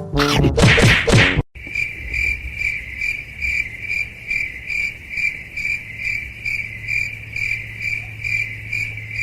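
Cricket chirping: a steady high chirp pulsing evenly about three times a second, after a brief loud burst of other sound in the first second and a half.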